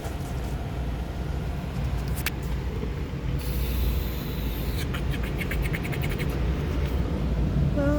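Steady low rumble of a car, with a high hiss for about a second and a half midway and then a quick run of clicks, about seven a second.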